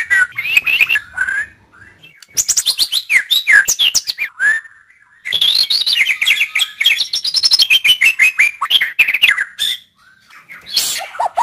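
White-rumped shama (murai batu) singing: rapid runs of varied whistles and sharp chattering notes in two long bursts a few seconds each, with brief pauses between them.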